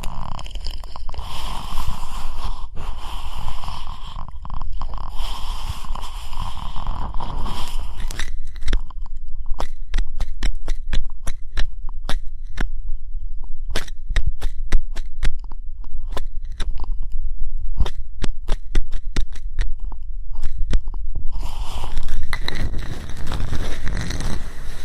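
Ear-cleaning tools scratching and rubbing right at a microphone's ear, heavy with low rumble. About eight seconds in the rubbing gives way to a long run of sharp separate clicks and scrapes, and the rubbing comes back near the end.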